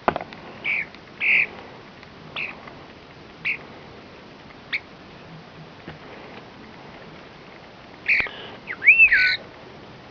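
A bird giving a series of short calls, spaced about a second apart. Near the end comes a louder cluster of calls, including one clear whistled note that rises and then falls.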